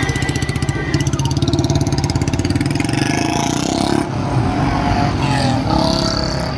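Tractor engine revving hard, its exhaust coming as rapid, even pulses; the pulsing gives way to a looser mixed noise about four seconds in.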